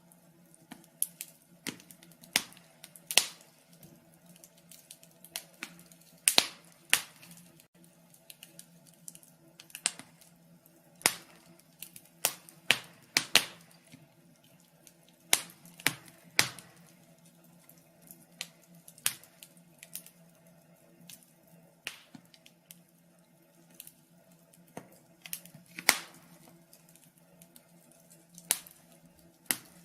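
Fire crackling: irregular sharp pops and snaps, some much louder than others, over a faint steady low hum.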